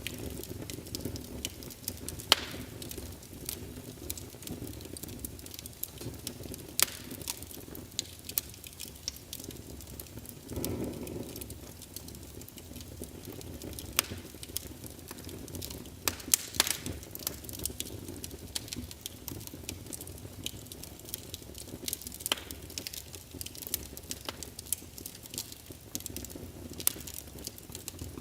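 Wood fire crackling in a fireplace: a steady low rumble of flames under irregular sharp pops and snaps, a few much louder than the rest.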